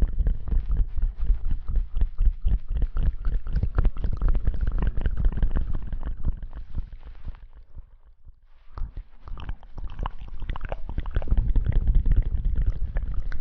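Close-miked ASMR rustling and scrubbing, a dense run of crackles and soft scratches with a heavy low rumble. It breaks off briefly about eight seconds in, then resumes.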